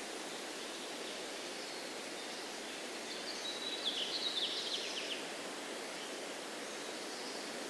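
Steady breeze rushing through trees, with a songbird singing one short phrase of quick, high chirping notes about halfway through.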